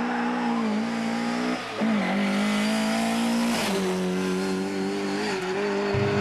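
Rally car engine running hard at high revs. Its note breaks briefly a little under two seconds in, then steps down in pitch a little before four seconds.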